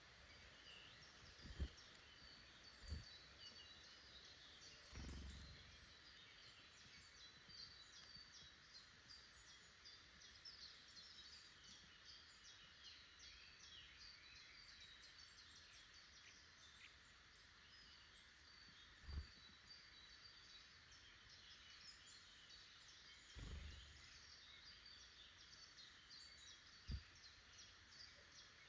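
Faint chorus of small woodland birds calling and chirping, many short high chirps overlapping throughout. A few brief low thumps sound among them, the loudest about a second and a half in.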